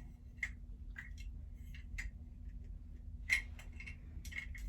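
Irregular light clicks and ticks, about ten, the loudest a little past halfway, as a new toilet flush lever is handled and its metal arm bent by hand.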